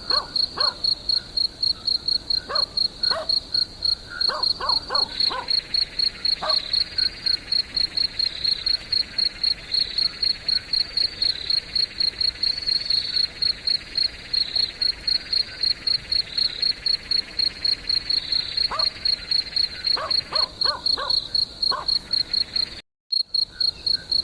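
Crickets chirping in a steady, fast pulse, about three to four chirps a second, with a softer continuous insect trill underneath for much of the time. Short yelping barks break in a few times, and the sound drops out for a split second near the end.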